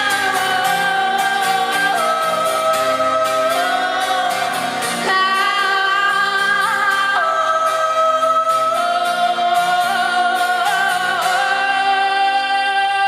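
Live band music with long held notes that step to a new pitch every couple of seconds. Light ticks run through the first half.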